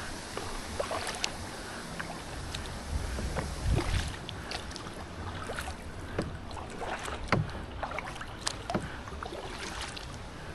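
Paddling a solo canoe: the paddle dipping and pulling through the water with splashes, drips and small knocks against the hull. A brief low rumble comes about four seconds in.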